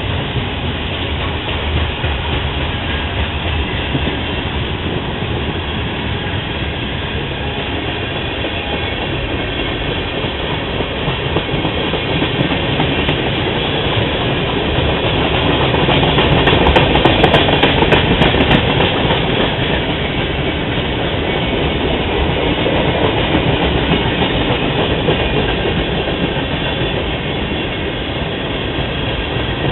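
Freight train cars rolling past: a steady rumble of wheels on rail with clickety-clack over the rail joints, swelling a little over half-way through with a short run of sharp clicks.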